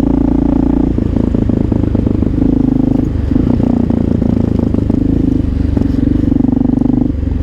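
Honda XR650L's air-cooled single-cylinder four-stroke engine running steadily while the bike is ridden. The engine note dips briefly about three seconds in and again near the end.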